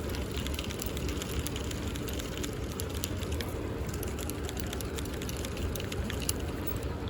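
A boat's motor running steadily with a low rumble, with scattered light ticks and crackles over it.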